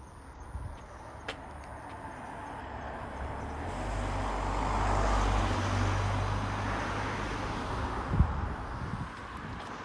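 A car drives past, its engine and tyre noise swelling to a peak about halfway through and then fading away.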